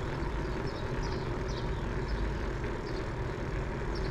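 Steady low rumble of a moving bicycle ride, wind and rolling tyre noise, with about half a dozen short high bird chirps scattered through it.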